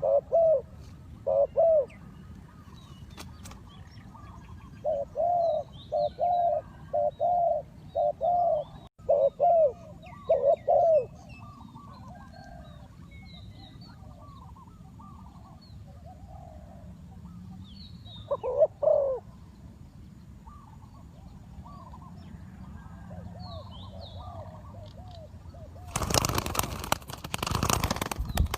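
Spotted doves cooing: loud repeated coo phrases come in clusters through the first third and once more briefly past the middle, with fainter coos and small bird chirps between. A loud rustling burst comes near the end.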